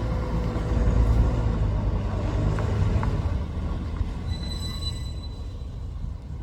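Dump truck's diesel engine running, deep and steady, with a brief high-pitched squeal about four and a half seconds in.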